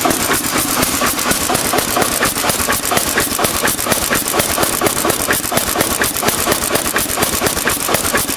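Ruston Hornsby Class BPR 4 BHP single-cylinder diesel stationary engine running steadily, its firing strokes a fast, even beat of several sharp knocks a second.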